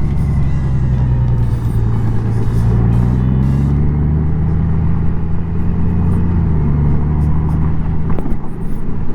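Honda Gold Wing's flat-six engine running under way with wind and road noise. The engine note rises a few seconds in and drops back later.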